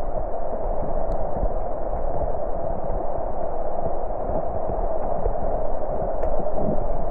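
Steady muffled rushing noise with a low rumble underneath.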